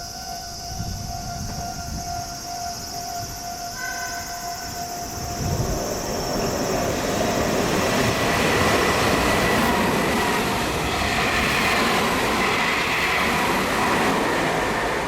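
Meitetsu electric train passing through the station at speed without stopping: a loud rushing rumble that builds about five seconds in and holds. Steady tones sound in the first few seconds, before the train arrives.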